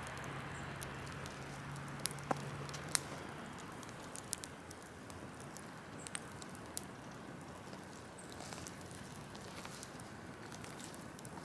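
Open wood fire of burning tree cuttings crackling: a steady hiss broken by sharp pops, the loudest few about two to three seconds in.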